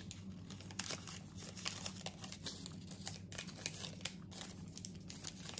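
Faint crackly chewing of a chocolate shortbread cookie, a scatter of small irregular clicks and crunches.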